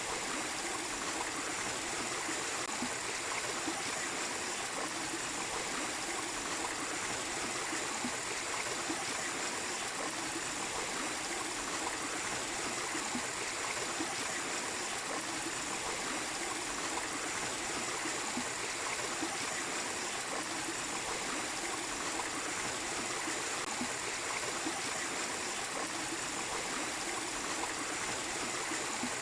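Small waterfall and stream water running and splashing steadily.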